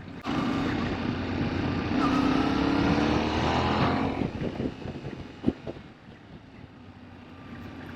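An adventure motorcycle's engine pulls hard for about four seconds with its pitch climbing, then the throttle closes and it drops to a quieter, steady run with wind noise.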